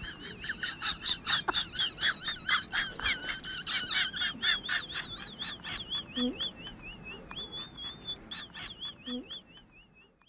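A rapid series of high, bird-like chirps, about three to four a second, each a quick rise and fall in pitch. The run keeps going without a break and thins out and fades near the end.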